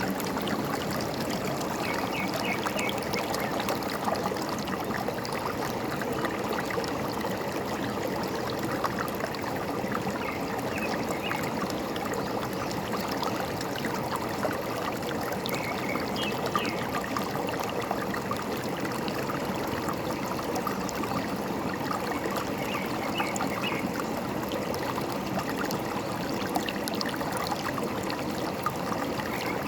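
Forest stream running steadily over stones, with short bird chirps every few seconds.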